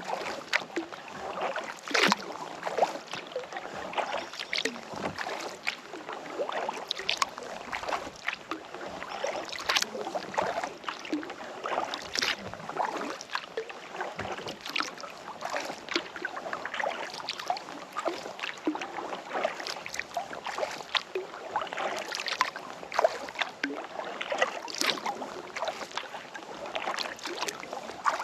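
Kayak paddle dipping into lake water, with a steady patter of drips and small splashes and a stronger splash every few seconds.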